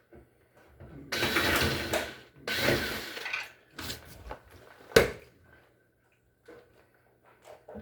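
Parts being handled during work on a washing machine: two rattling, scraping stretches of about a second each, then a single sharp knock about five seconds in.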